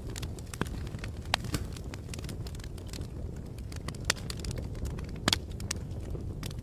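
Wood fire crackling: irregular pops and snaps over a low steady rumble, with a sharper double pop about five seconds in.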